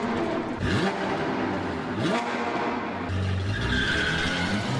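Car engines revving up in quick rising sweeps, then a tire squeal over a steady low engine note near the end.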